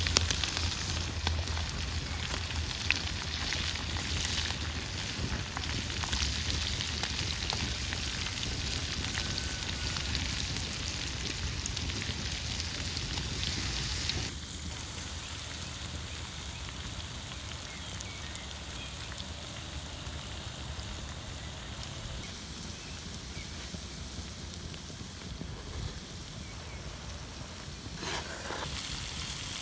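Open wood cooking fire crackling and sizzling under steady rain. About halfway through, the sound drops to a quieter, softer hiss.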